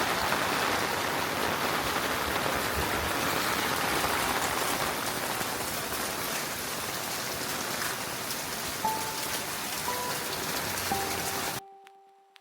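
Steady rainfall, an even hiss of falling rain. A few held musical notes come in near the end, and then the rain cuts off suddenly.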